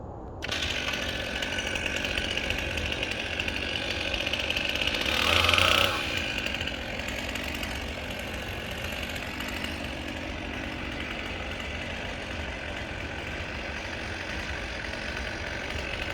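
Chainsaw running through a cut on a large piece of the tree. It comes in suddenly about half a second in, is loudest for about a second around five seconds in, then runs on steadily.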